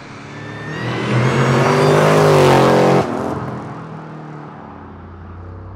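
Supercharged 6.0-litre iron-block LY6 V8 of a Holden VF Commodore SSV accelerating hard toward and past, its note rising in pitch and growing louder. About three seconds in it drops sharply as the car goes by, then fades away.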